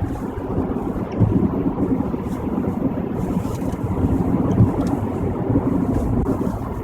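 Steady low rumble of a car driving at highway speed, heard from inside the cabin: tyre and road noise with engine drone, and a few small thumps.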